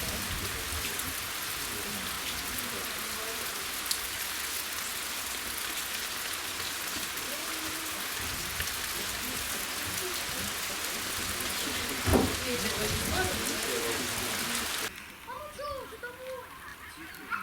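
Steady hiss of falling rain, with faint calls and voices underneath and a single thump about twelve seconds in. The hiss cuts off suddenly near the end.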